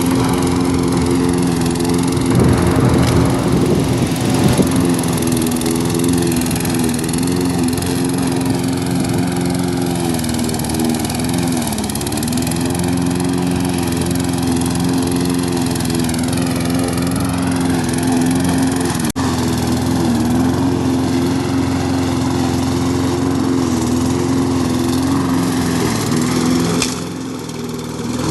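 Four-stroke lawn mower engine running steadily, its pitch sagging briefly a few times before picking back up, and quieter for a moment near the end.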